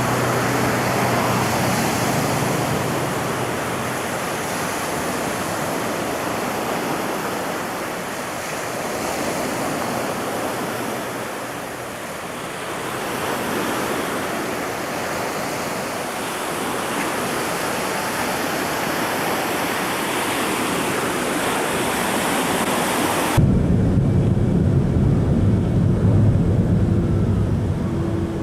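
Steady rushing noise, like wind or moving water, that cuts off abruptly near the end and gives way to a low rumble.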